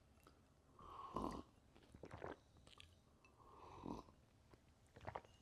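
Two quiet sips of coffee, the first about a second in and the second just before four seconds in.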